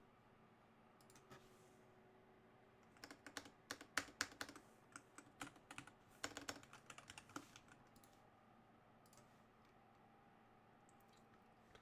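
Computer keyboard typing: a quick run of key clicks for about four seconds, then a few scattered keystrokes near the end.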